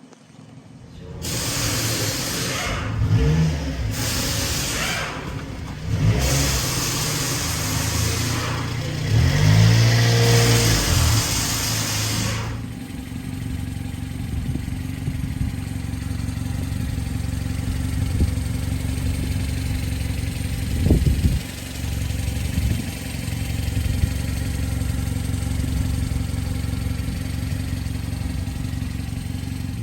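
1996 Subaru Sambar kei truck's small 660 cc four-cylinder engine running: revved in several blips over the first dozen seconds, then settling into a steady idle with one more short blip of the throttle about two-thirds of the way through.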